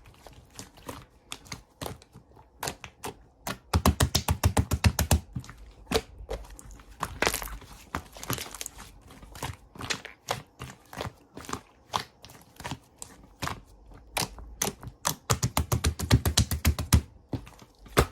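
Slime being squeezed and pressed by hand, making sticky clicking and popping sounds, with two fast runs of loud pops about four seconds in and again about fifteen seconds in.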